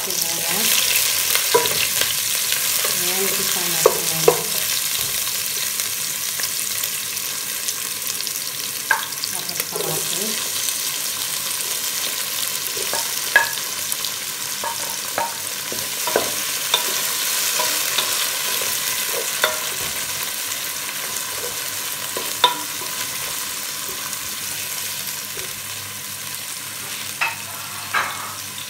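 Chopped garlic and onion, then tomato, sizzling in hot oil in a pan, stirred with a wooden spatula that clicks against the pan every few seconds.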